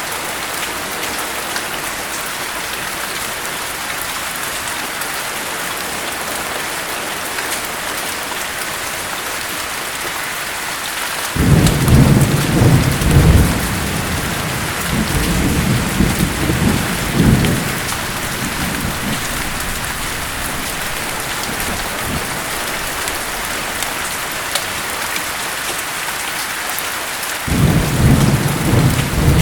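Steady heavy rain with two rolls of thunder. The first starts suddenly about eleven seconds in and rumbles on in several swells for about six seconds. The second starts suddenly near the end.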